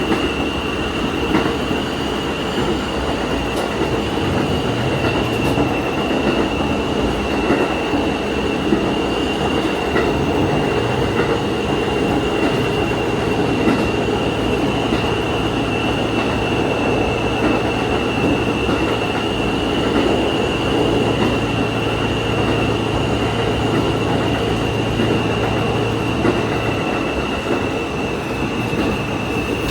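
Diesel railcar running along the line, heard from the front of the train: steady engine drone and wheel-on-rail running noise with a constant high whine. A low engine hum comes in about twelve seconds in and drops away a few seconds before the end.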